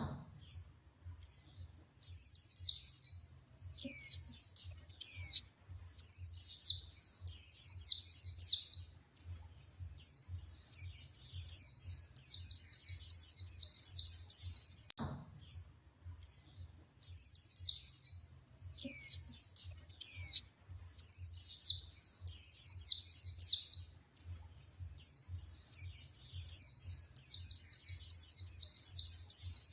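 Female white-eye singing a fast, high twittering song in runs of one to two seconds with short pauses between them. A single click sounds about halfway through.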